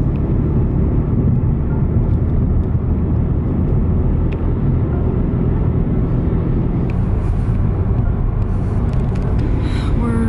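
Car driving along at steady speed: a constant rumble of road and wind noise.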